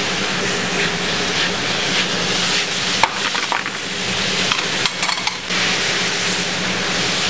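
Diced peppers and onions frying with chicken and andouille sausage in stainless sauté pans over a gas flame: a steady sizzle with a few light clicks and knocks from the pans, over a steady low hum.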